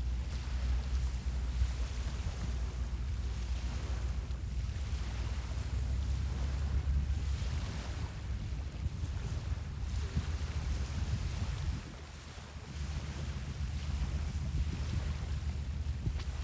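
Wind buffeting the phone's microphone: a low rumble under a steady hiss, easing for a moment about twelve seconds in.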